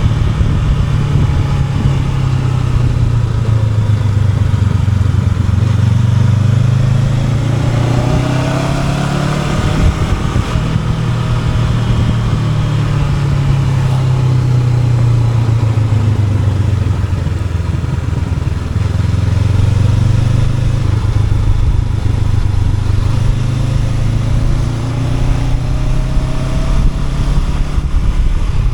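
Honda NX500 parallel-twin motorcycle engine under way, its pitch rising and falling slowly as the revs change over several seconds, with steady wind and road noise.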